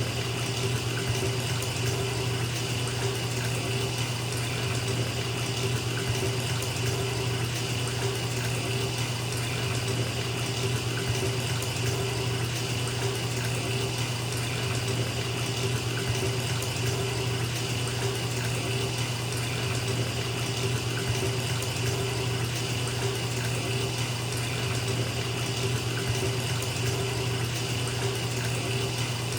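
Bathtub filling from a running tap: a steady stream of water splashing into the tub, unchanging throughout.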